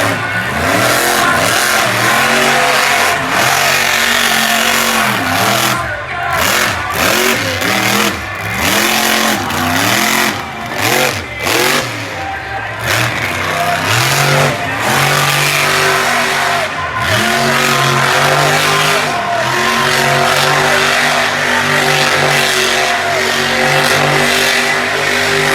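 Monster truck engine revving hard, its pitch swinging up and down over and over. In the second half it is held at a steadier high pitch for several seconds at a time.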